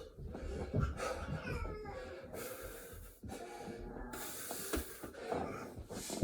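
A person breathing hard and wheezing from exhaustion during burpees, with long heavy exhalations and strained, partly voiced breaths.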